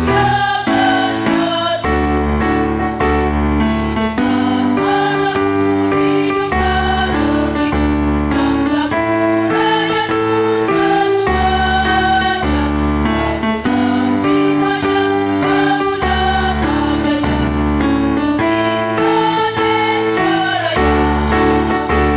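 Women's choir singing in chords with a steady instrumental accompaniment underneath, the chords changing every second or two.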